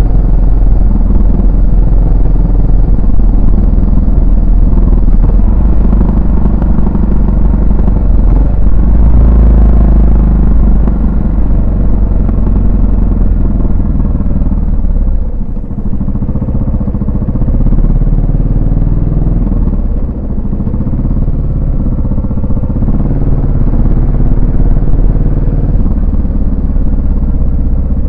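Yamaha SR400's single-cylinder four-stroke engine and exhaust under way, the engine note rising and falling with throttle and gear changes. It eases off about halfway through, then picks up again.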